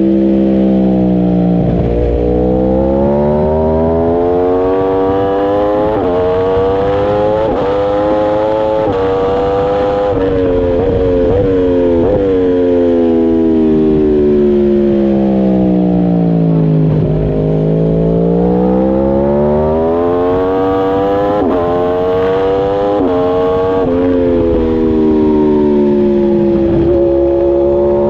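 Superbike engine heard from on board, its note climbing slowly for several seconds, falling away, then climbing again as the revs follow the throttle, with a few brief quick rises in pitch along the way.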